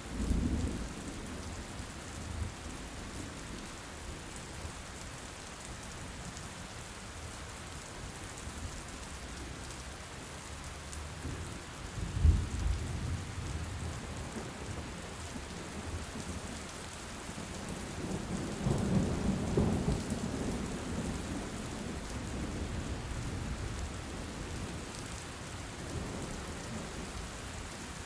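Loud, steady rain with thunder: a low rumble at the start, a sharp crack about twelve seconds in, and a longer rolling rumble a few seconds later.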